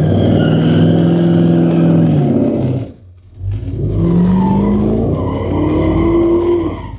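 The 350 V8 of a 1970 Oldsmobile F-85 W-31 revving hard and held high for about two seconds, dropping away sharply, then rising in pitch again to a second high hold that falls off near the end.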